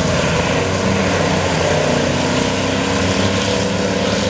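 Engines of several racing pickup trucks running hard at speed in a pack, a loud steady drone of overlapping engine pitches.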